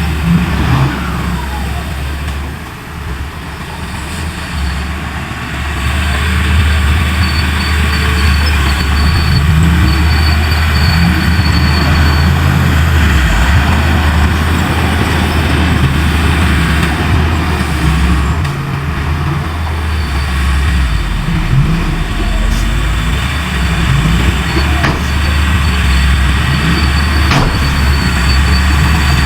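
Heavy diesel engine of earthmoving machinery running steadily with a deep, continuous drone, dipping somewhat a few seconds in before coming back up.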